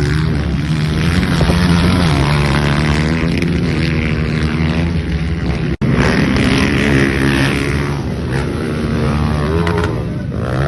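Motocross dirt bike engines running and revving, their pitch rising and falling. The sound cuts out for an instant about six seconds in.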